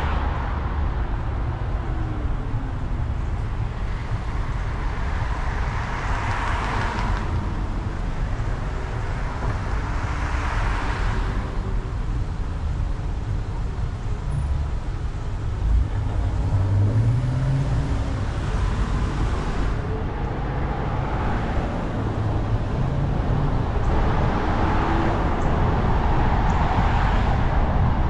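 Road traffic: several vehicles passing, each rising and fading, over a steady low rumble.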